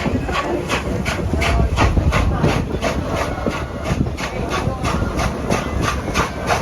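Norfolk and Western 611 steam locomotive working, its exhaust chuffing in an even beat of about four a second over the low rumble of the moving train.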